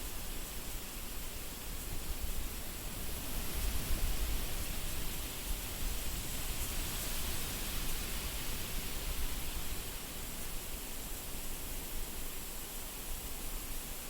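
Wind blowing steadily, with a deep gusty rumble beneath a hissing rush; it swells about a third of the way in and eases off toward the end.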